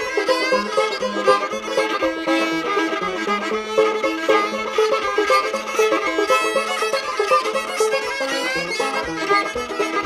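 Old-time fiddle tune played on a violin in an instrumental break between verses, with a plucked string accompaniment.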